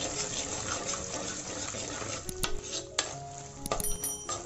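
Dried turkey berries and dried brinjal frying in hot oil in a pan: a steady sizzle, with a few sharp metal clinks against the pan in the second half.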